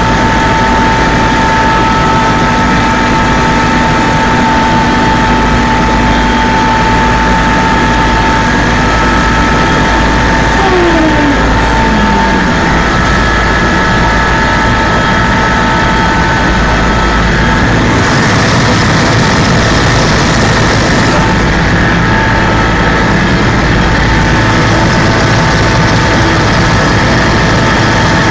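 Helicopter in flight: loud, steady engine noise with several constant whining tones, and a faint tone falling in pitch about ten seconds in.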